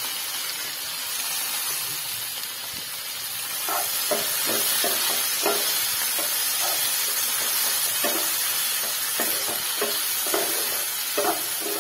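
Chopped tomatoes, onion and whole spices sizzling steadily in hot oil in a non-stick kadhai. From about four seconds in, a wooden spatula stirs them with short irregular scraping strokes against the pan.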